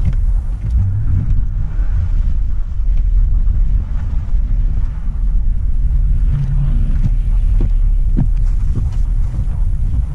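A vehicle driving on a snowy road: a steady low rumble of engine and road noise, with a few faint ticks scattered through it.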